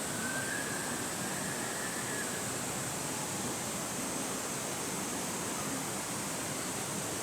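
Steady rushing of flowing water, an even hiss with no breaks. A faint thin high tone sounds over it for about two seconds near the start.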